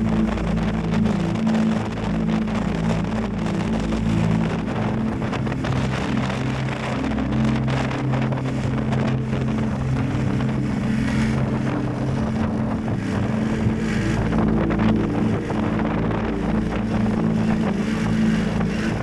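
Yamaha Tracer 7 GT's 689 cc parallel-twin engine running under way, its note shifting a little now and then, with heavy wind noise on the microphone.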